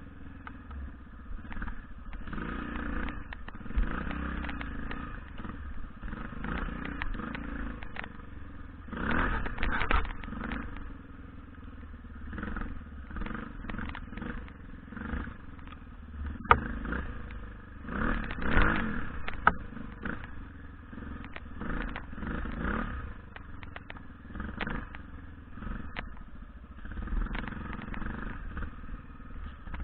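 BM Enduro 250 motorcycle engine running under varying throttle as it is ridden, revving up and down, with stronger bursts about nine and eighteen seconds in. Scattered sharp knocks and clatter.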